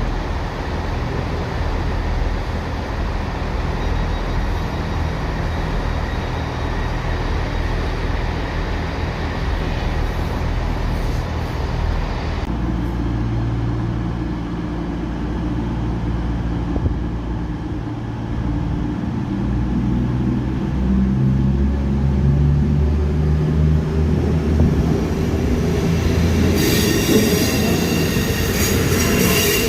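Class 158 diesel multiple unit running through the station, its diesel engine and wheels on the rails sounding steadily, with the engine note changing to a lower drone about twelve seconds in. A few seconds before the end a high-pitched squeal of wheels or brakes starts up.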